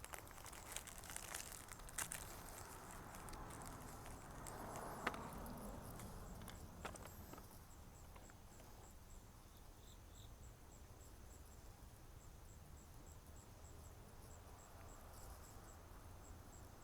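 Near silence: faint clicks and light rustling of small faucet-repair-kit parts being handled over the first several seconds, then only a faint, regular high ticking, a few ticks a second.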